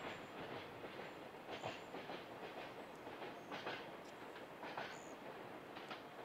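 Distant container freight train hauled by an EH500 electric locomotive, approaching: a faint steady rumble with sharp clicks about once a second, the wheels clacking over the rail joints.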